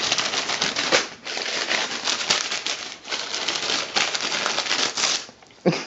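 A newsprint pharmacy flyer crinkling and rustling in dense, quick crackles as a cat paws and bites at it. The crackling stops briefly about five seconds in.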